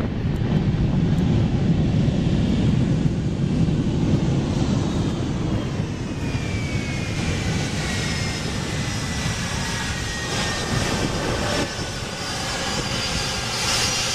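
Jet airliner's engines during a landing roll: a heavy rumble that eases after about six seconds, with a whine gliding slowly down in pitch.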